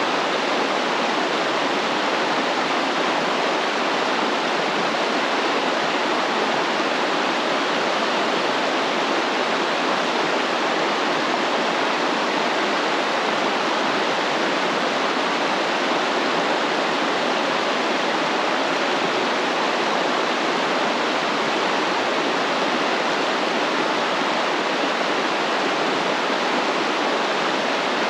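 Stream water flowing and splashing, a steady rushing hiss with no change or break.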